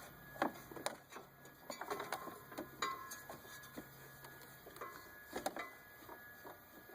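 Irregular metallic clicks and clinks of hand tools and parts being handled while reassembling an engine's belt drive, one clink ringing briefly about three seconds in.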